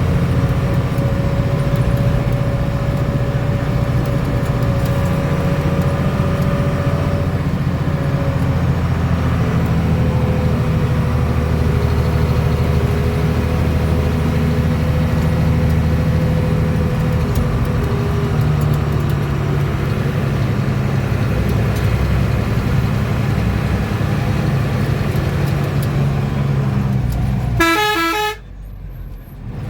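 Bus engine running steadily, heard from inside the cabin, with a low drone and road noise. Near the end the horn sounds in a quick run of short pulses, and the sound then drops away briefly.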